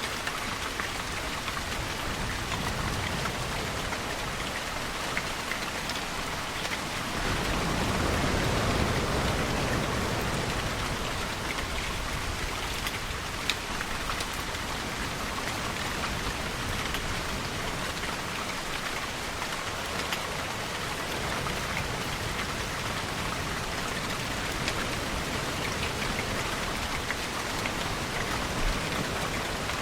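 Steady rainfall with scattered drop clicks, and a deeper swell of sound that rises about a quarter of the way in and fades a few seconds later.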